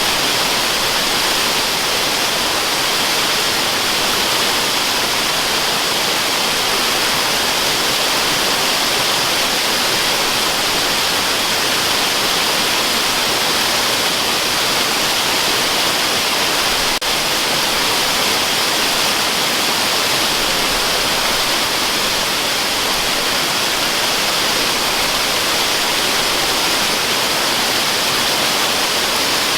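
Waterfall rushing in a steady, unbroken hiss, with most of its energy high up.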